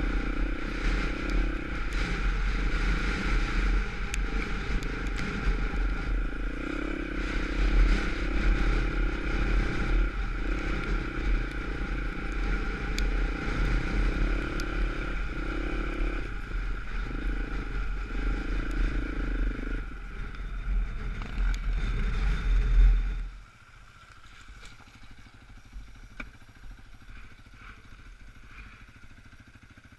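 Off-road dirt bike engine running with the throttle opening and closing, with some clatter. About 23 seconds in it drops away sharply, leaving a faint low hum.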